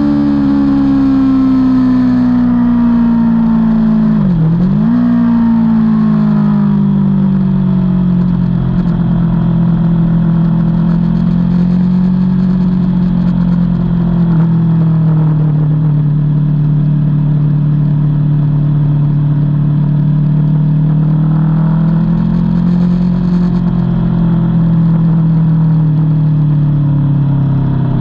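Aprilia Tuono V4's V4 engine heard on board. Its pitch falls as the bike slows over the first few seconds, with a brief sharp dip about four seconds in, then it runs at a fairly steady middling pitch with small rises and falls.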